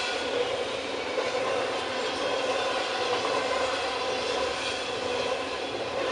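Double-stack intermodal freight train's container well cars rolling past at speed, steel wheels on the rails making a steady, continuous noise.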